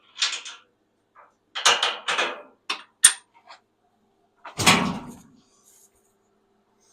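Metal clanks and rattles with a sharp click, then a heavy thump about four and a half seconds in, as the Bobcat 7753 skid steer's cab is tilted up.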